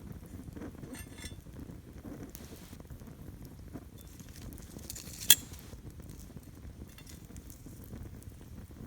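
Wood campfire burning with a soft crackle and scattered small ticks, and one sharp, loud pop about five seconds in.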